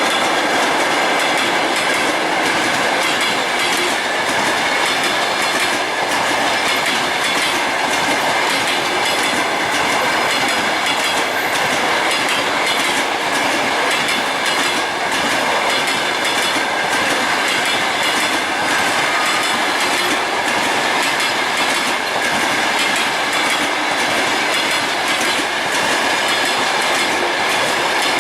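Long-distance passenger train's cars rolling past at speed: a steady rushing of wheels on rail, with the wheels clicking over the rail joints.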